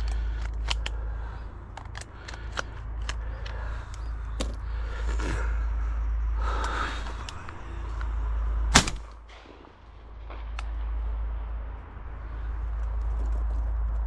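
A single shotgun shot about nine seconds in, sharp and much louder than anything else, over a steady low wind rumble on the microphone and scattered small clicks and rustles of handling.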